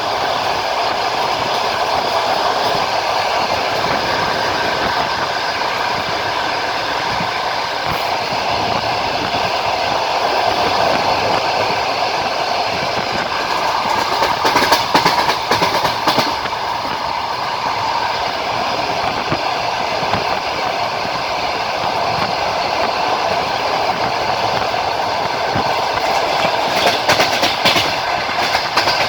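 Passenger train coach running at speed, wheels clacking over the rail joints over a steady rolling rumble. The clatter grows louder in a burst about halfway through and again near the end.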